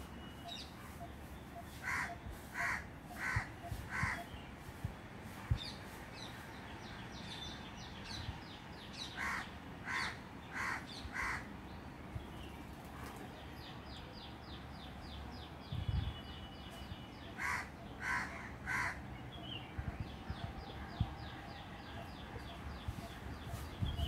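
Harsh bird calls in runs of four, about two-thirds of a second apart, heard three times, with a rapid high chittering trill in between.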